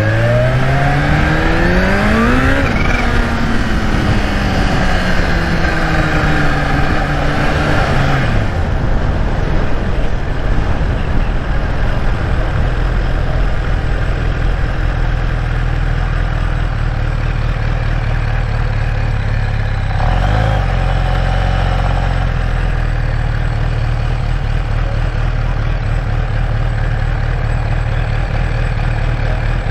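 Kawasaki Ninja H2's supercharged inline-four rising in pitch as it pulls, then winding down as the bike slows. About eight seconds in it drops to a steady idle that holds.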